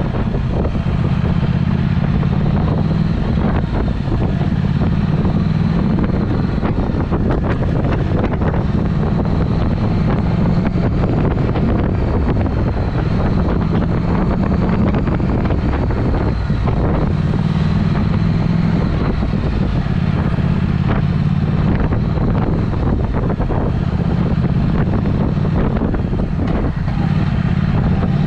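Triumph Speed Twin's parallel-twin engine running under way through a Vance & Hines aftermarket exhaust, a steady loud exhaust note whose pitch shifts up and down several times, with wind on the microphone.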